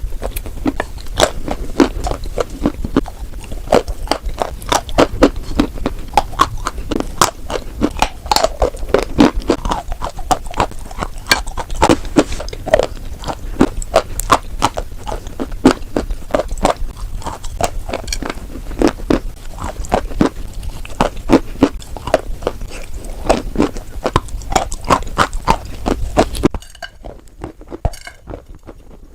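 White chalk being bitten and chewed in a dense, irregular run of crunches. Near the end a low background hum stops and the crunches become sparser.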